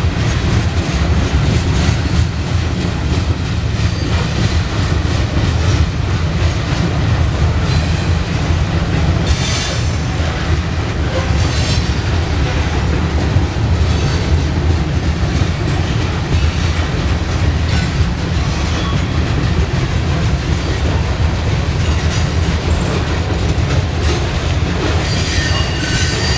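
Freight cars of a Norfolk Southern grain train rolling past at close range, a steady heavy rumble with clatter over the rail joints. Wheel flanges squeal high now and then, about ten seconds in and again near the end.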